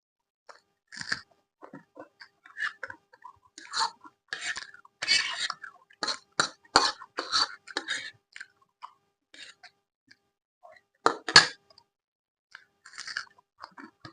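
Close-miked chewing and eating: irregular short, wet mouth sounds, with one sharper, louder burst about eleven seconds in.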